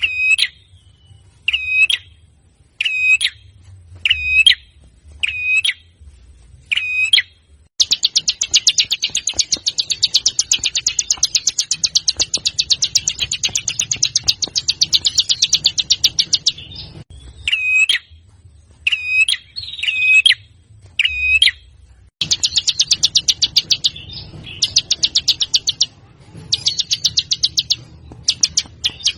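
Songbird song recording: short, sharp high calls repeated about once a second, broken by long, very fast rattling trills, one lasting about eight seconds and several shorter ones near the end.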